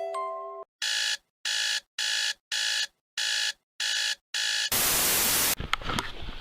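The end of a chiming mallet-percussion music sting, then seven quick electronic beeps like an alarm clock going off, followed by about a second of loud, even hiss like static, and a few faint clicks near the end.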